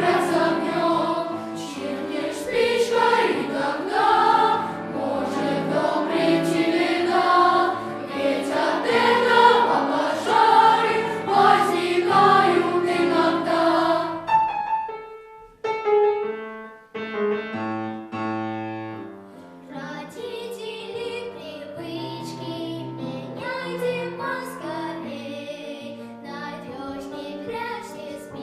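Boys' choir singing a children's song with piano accompaniment. About fourteen seconds in the voices stop and the piano plays alone for a few seconds, then softer singing returns over the piano.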